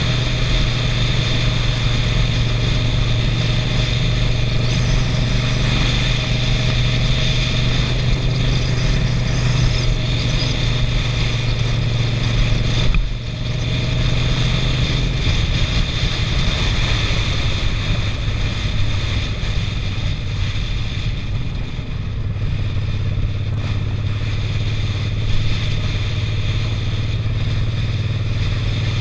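Suzuki SV650's V-twin engine running steadily under way, heard from a helmet-mounted camera. About 13 seconds in the sound dips briefly, and after that the engine note runs a little lower.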